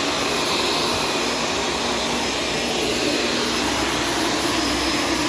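Shark self-cleaning vacuum cleaner running steadily on the floor, a continuous motor drone with a faint steady hum.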